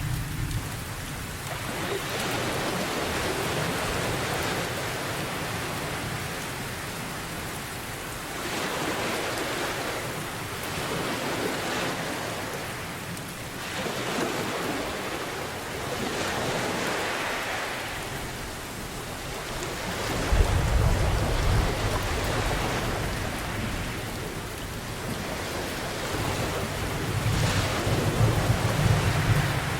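Steady rain with ocean waves washing in and out every few seconds, and low rolls of thunder about two-thirds of the way through and again near the end.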